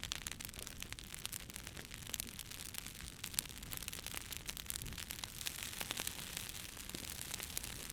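Wood campfire burning: a steady hiss with many sharp crackles and pops from the burning wood.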